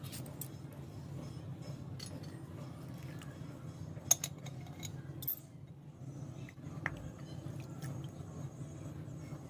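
Scattered light clicks and clinks of objects being handled, with one sharp clink about four seconds in and another near seven seconds, over a steady low hum.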